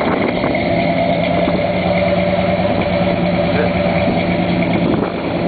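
1968 Ford Thunderbird's rebuilt 429 Thunderjet V8 idling steadily, with a throaty note from its new dual chrome exhaust.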